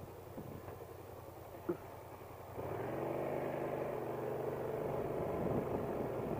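Motorcycle engine starting about two and a half seconds in, then running at a steady idle.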